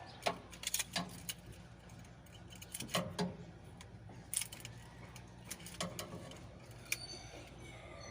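Metal hand tools clicking, clinking and knocking against engine parts in irregular bursts over a steady low hum.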